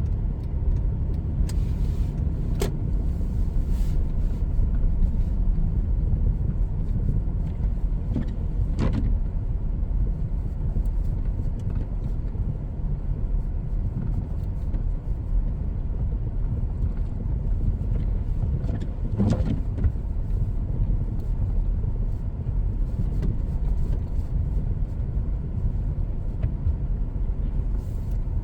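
Car driving, heard from inside the cabin: a steady low rumble of engine and road noise, with a few brief knocks and clicks.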